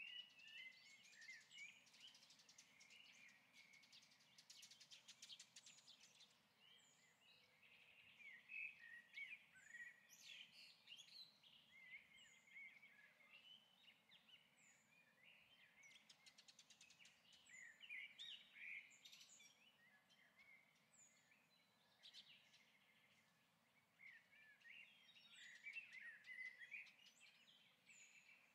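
Faint birdsong: phrases of chirping, warbling calls every few seconds, with a short high note repeating about once a second.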